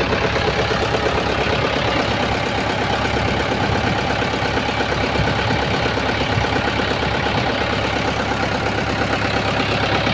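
Tractor engine running steadily under load, driving a PTO-powered water pump.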